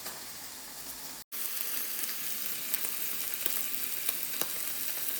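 Food frying in a pan, a steady sizzle with scattered crackles and pops. The sound drops out for an instant just over a second in and comes back louder.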